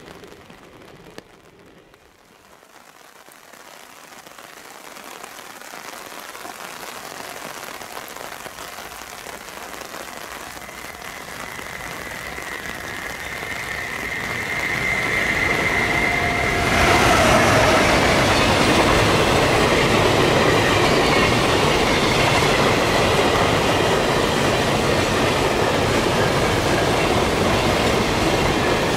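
JR Freight EF510 electric locomotive hauling a container freight train past at speed. Its sound builds steadily as it approaches, with a high whine as the locomotive draws near. The loudness jumps suddenly as the locomotive reaches the camera, then holds in a steady loud rush and clatter of container wagons rolling by.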